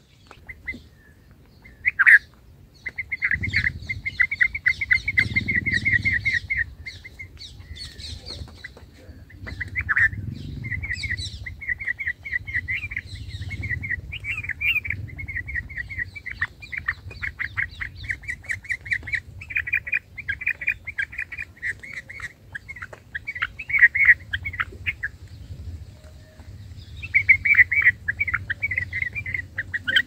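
A small bird chirping rapidly, in quick runs of several seconds broken by short pauses, over a low rumble.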